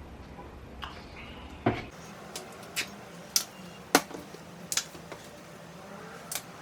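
Tableware being handled: about six sharp clinks and knocks of dishes, cutlery or containers, spaced irregularly.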